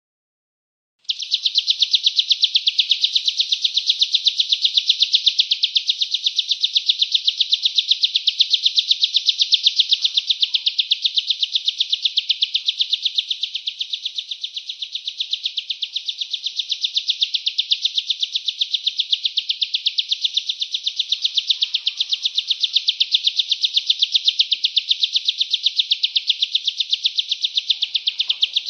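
Bar-winged prinia song: a fast, unbroken run of evenly spaced high chirping notes, several a second, starting about a second in and going on without a pause.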